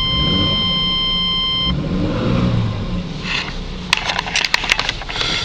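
1996 Chevy S10's 4.3 V6 Vortec engine idling just after a cold start. A steady high whine rides over the engine at first and cuts off suddenly about a second and a half in, and several sharp clicks come near the end.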